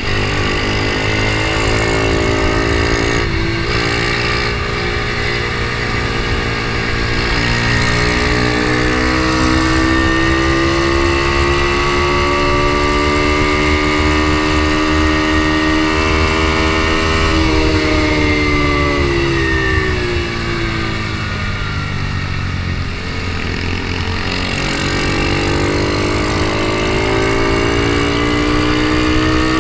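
Onboard sound of an Ohvale mini GP racing bike's single-cylinder four-stroke engine at full race pace. The engine note climbs steadily for about fifteen seconds, drops away for several seconds as the bike slows, then climbs again near the end, with heavy wind rumble on the microphone throughout.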